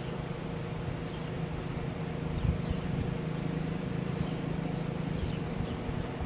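Wind buffeting the microphone over a steady low mechanical hum.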